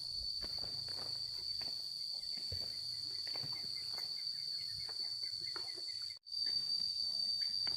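Steady high-pitched drone of insects, with scattered light knocks and clicks over it; the sound cuts out for a moment about six seconds in.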